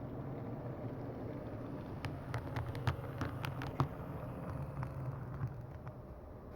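HO scale model diesel switcher running along the track: the steady hum of its small electric motor and gears, with a run of light clicks from the wheels and cars over the rail joints and points about two to four seconds in. The hum fades near the end.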